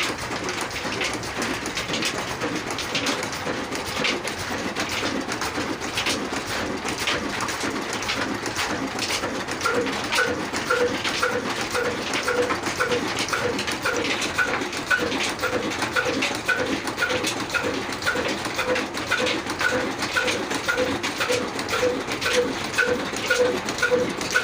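Slow-speed Kala diesel oil engine running at about 300 RPM, with a steady rhythm of regular knocks. About ten seconds in, a short high chirp starts repeating in time, roughly twice a second.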